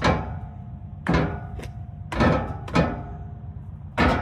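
Five or six sharp metallic knocks about a second apart, each leaving a brief ring, as a driveshaft center bearing assembly is knocked apart and its parts handled.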